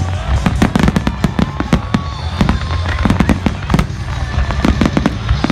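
Fireworks going off in a rapid, continuous volley of bangs and crackles, many each second, over a low rumble.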